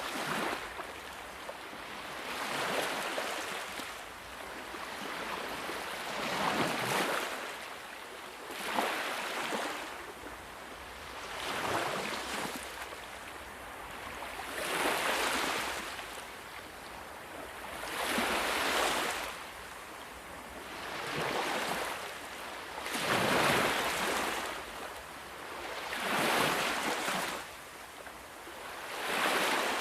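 Ocean waves washing onto a shore, a steady rush of surf that swells and falls back every two to three seconds.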